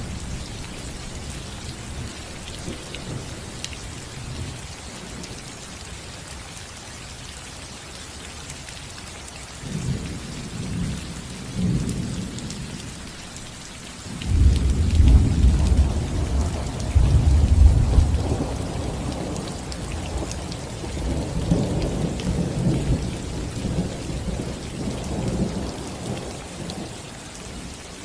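Steady rain falling on a roof, with rolling thunder. A few low rumbles come about a third of the way in, the loudest thunder comes around the middle, and weaker rumbles follow that die down near the end.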